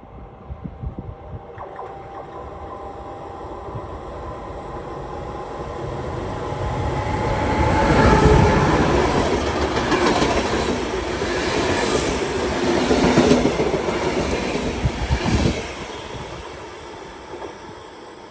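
A train passing through the station: its sound builds over several seconds, stays loud through the middle with a few sharp clacks of wheels over rail joints, then fades away near the end.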